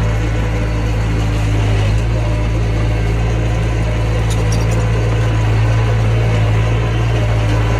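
Mini bulldozer's diesel engine running steadily with an even low hum.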